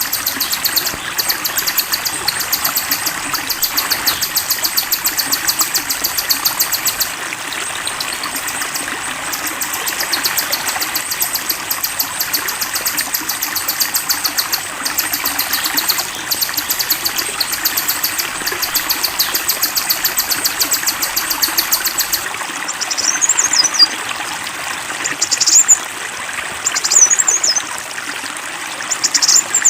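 Songbird recording laid over a steadily flowing stream: a fast, high, buzzing trill repeats until about two-thirds in, when it cuts to a different bird's short whistled phrases that slide downward, several times.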